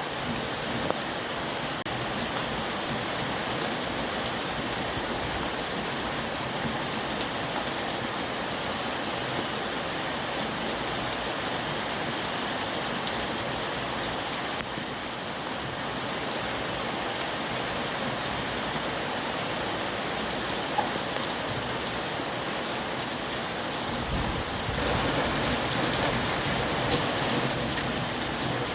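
Heavy rain falling steadily on a surface. About 24 seconds in, a low rumble comes in, and then the rain grows louder.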